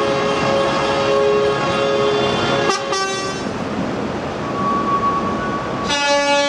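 Horns of arriving tractors sounding in long, overlapping held blasts over engine noise. One set of horns cuts off about three seconds in and another starts near the end.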